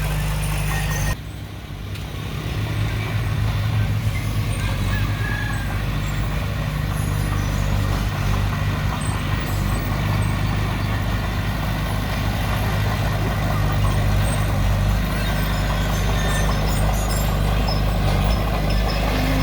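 Heavy earthmoving machine's diesel engine running steadily under work, with a sudden dip about a second in before it builds back up over the next couple of seconds.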